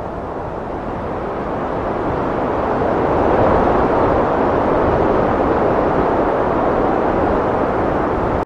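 Heavy wind blowing, a steady rushing noise that swells to a peak a few seconds in and holds there.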